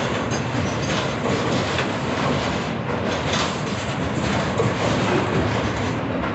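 Freight train of container-carrying flatcars rolling past, steel wheels on the rails making a steady rumble with scattered clacks.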